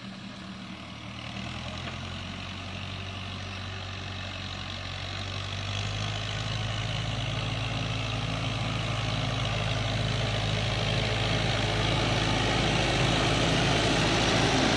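Tractor engine running steadily, growing gradually louder, with a shift in its low pitch about halfway through.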